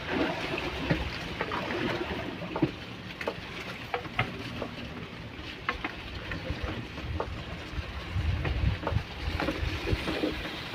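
Small boat on a river: scattered light knocks and taps against the boat over the water's noise, with an uneven low rumble of wind on the microphone.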